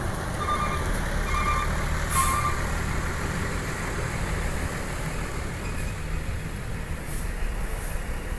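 Bus diesel engine running with a steady low rumble and short hisses of air released from the brakes, about two seconds in and again near the end. A few faint short beeps sound in the first couple of seconds.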